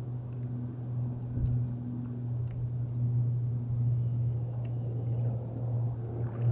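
A small boat engine running steadily with a low, even drone that gets louder near the end.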